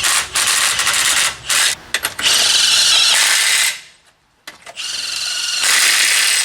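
Impact wrench running the truck's wheel lug nuts on, in several bursts with a brief stop about four seconds in.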